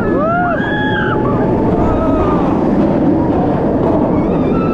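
Roller coaster ride: heavy wind rushing over the microphone, with riders screaming and whooping, most of it in the first second or so and again near the end.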